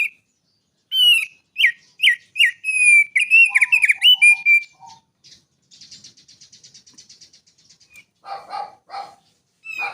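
Small songbird singing: a quick run of loud, clear whistled notes and slurs, then a fast buzzy trill about halfway through, and a few lower, harsher notes near the end.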